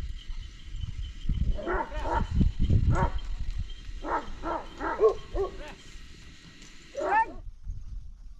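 A dog barking repeatedly in quick runs of short barks, the last ones about seven seconds in, over a low rumble.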